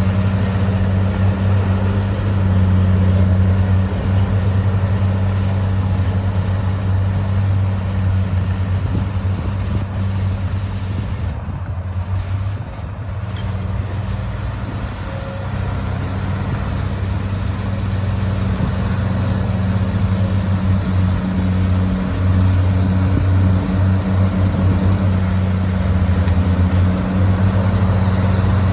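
Komatsu bulldozer's diesel engine running steadily with a deep hum, easing off briefly about twelve seconds in before picking up again.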